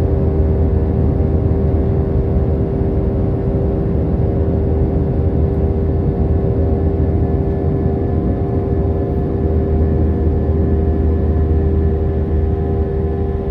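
Airbus A319 jet engines heard from inside the passenger cabin: a steady, unchanging drone with a low rumble and a constant hum.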